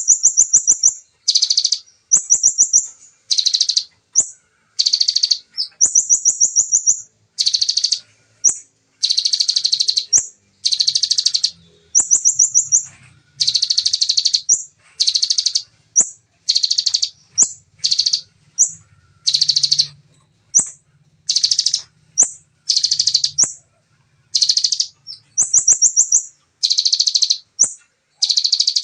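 Bar-winged prinia (ciblek) singing in rapid-fire 'tembakan' phrases: short, dense, high-pitched trills of about half a second to a second, one after another with brief gaps. Some phrases are a thinner, higher trill.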